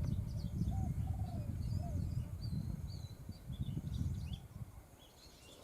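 Faint high chirps and short calls of Oriental magpie-robins fighting at the trap, over a louder irregular low rustling rumble that fades out about four and a half seconds in.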